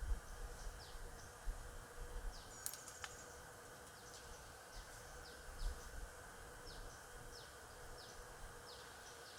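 Stingless bees buzzing in a steady, faint hum, over a run of short high chirps that repeat every half second or so, each falling in pitch. Low rumbling bumps come through in the first few seconds and again near the middle, with two sharp clicks about three seconds in.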